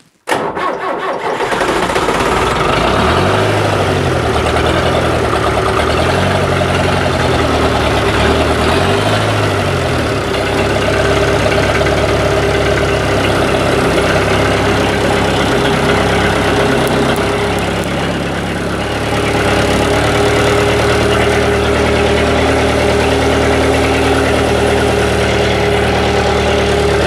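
A 55-horsepower diesel tractor engine cranks briefly and catches at once on a cold start after months unused, jump-started from a portable booster pack. Its speed rises and falls three times over the first ten seconds, then it settles into a steady idle.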